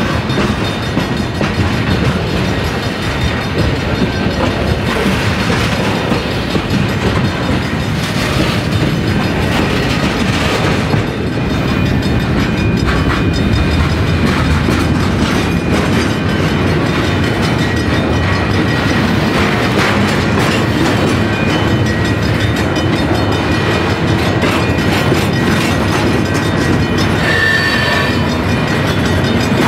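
Train rolling past, its wheels clacking steadily over the rail joints in a loud, continuous rumble, with a brief high wheel squeal near the end.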